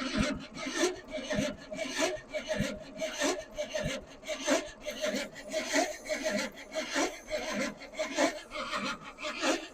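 Starter cranking the engine of a mid-1970s Chevrolet C30 square-body dump truck, turning it over slowly in an even rhythm of about two beats a second without it catching. The owner suspects a weak battery.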